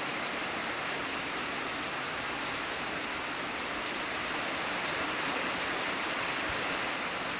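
Hard rain falling steadily, drops hitting concrete with a dense, even hiss.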